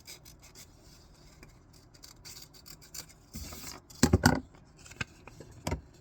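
Scissors snipping through paper in small quick cuts, then a brief paper rustle. About four seconds in comes a loud cluster of knocks, the loudest sound here, with one more knock near the end.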